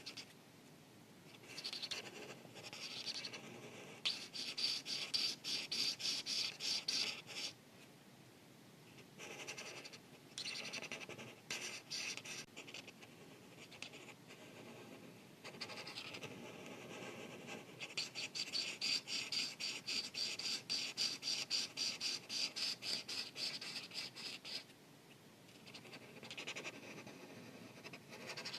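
Felt-tip art marker rubbing and scratching on paper in quick back-and-forth coloring strokes, several strokes a second. The strokes come in runs of a few seconds with short pauses between them.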